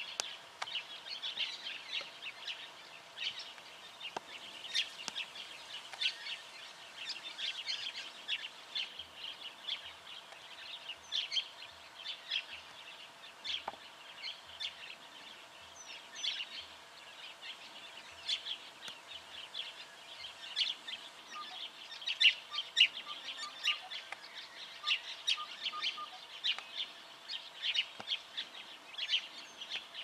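Small birds calling: a busy, overlapping run of short, high chirps and twitters that goes on without a break, thickest in the last third. A faint series of softer, lower pips comes in about two thirds of the way through.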